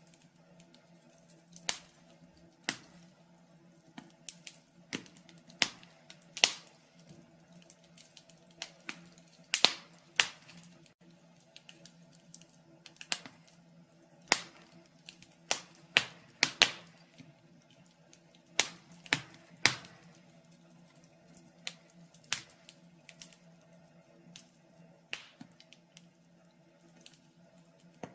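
Wood fire in a fireplace crackling: irregular sharp pops and snaps, some louder than others, over a faint steady hum.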